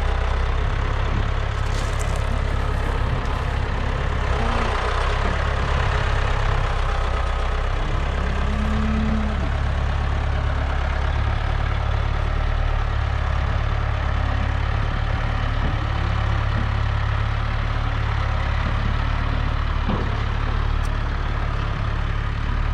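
Case IH 695 tractor's diesel engine running steadily at low speed as the tractor is driven down off a trailer.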